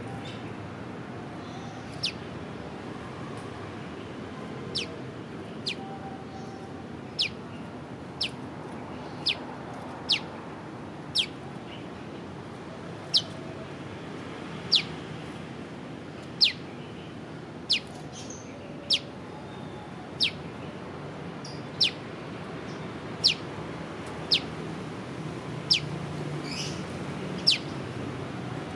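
A prenjak lumut bird calling a repeated sharp, falling 'piw', one note about every second or so, somewhat irregularly, over steady background noise.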